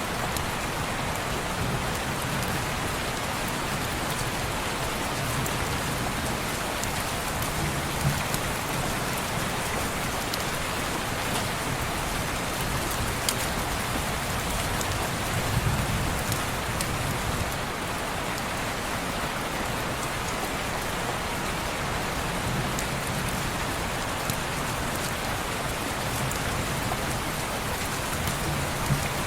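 Steady rain falling on window glass, an even hiss, with a few sharp clicks and a soft low rumble swelling about halfway through.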